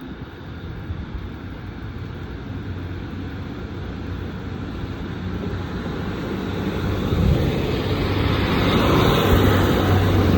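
Diesel train running, its low engine hum and rumble growing steadily louder and loudest near the end.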